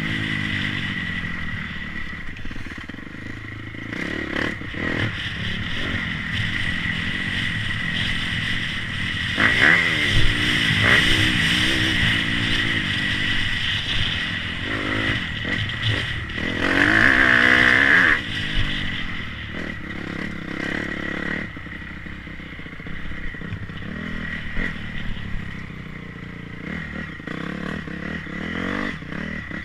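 Motocross bike engines revving and passing, their pitch rising and falling, with the loudest passes about ten seconds in and around seventeen seconds in.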